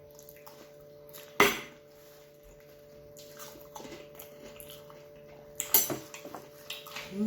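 Cutlery clinking against a plate as a meal is finished, with a sharp clink about a second and a half in and a couple more near the end, over a faint steady hum.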